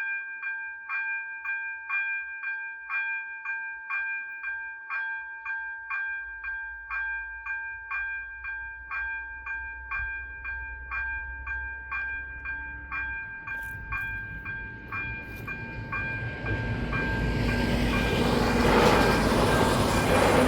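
ZV-02 electronic level-crossing bells striking a multi-tone chime about twice a second, while a train's rumble builds up and the train passes loudly over the crossing near the end.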